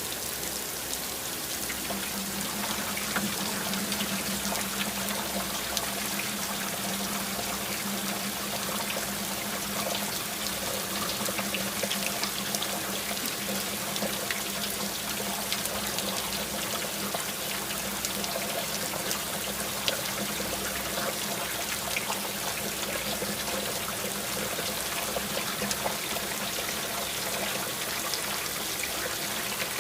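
Steady rain with water trickling and running, and many small drop ticks scattered through it.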